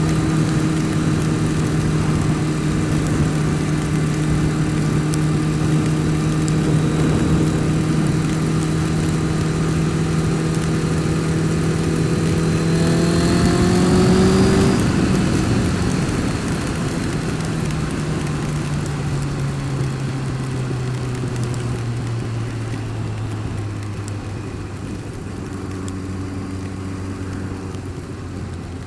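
Honda Fireblade inline-four motorcycle engine running at a steady speed. Its speed rises about halfway through, then drops and falls slowly to a lower, steady idle. It carries an unidentified weird noise that the owner finds worse when the engine is cold.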